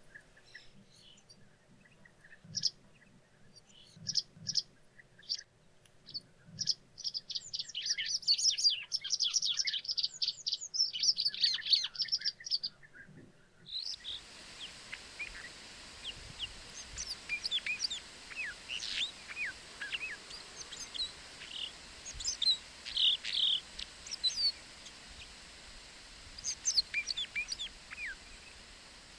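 Small songbirds chirping and singing: repeated high chirps build into a rapid twittering run between about eight and twelve seconds in. After an abrupt cut at about fourteen seconds, scattered short, high calls sound over a steady hiss.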